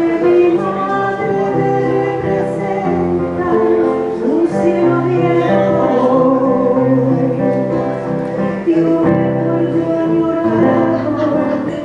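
A woman singing a song to acoustic guitar accompaniment, holding long notes.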